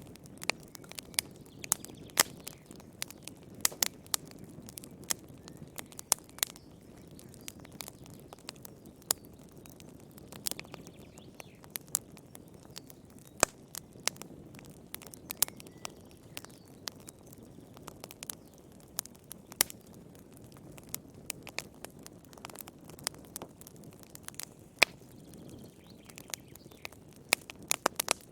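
Wood fire burning in a fireplace: a low steady rush of flames with frequent sharp, irregular crackles and pops from the burning logs.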